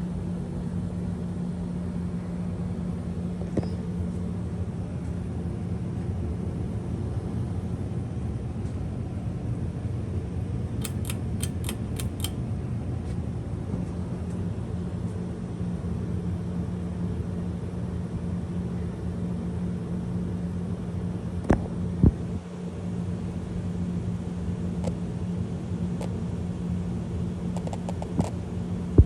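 1991 Bahama Deluxe Hugger 52-inch ceiling fan running, a steady motor hum with the rumble of moving air. A quick run of faint ticks comes about eleven seconds in, and two sharp knocks a little after twenty seconds.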